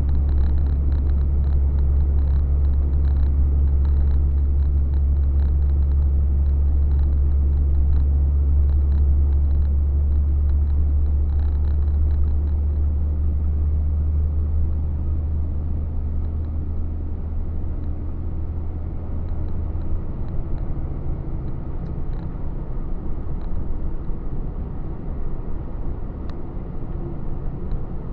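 Truck engine and road noise heard from inside the cab: a steady low drone that eases off and changes about twenty seconds in.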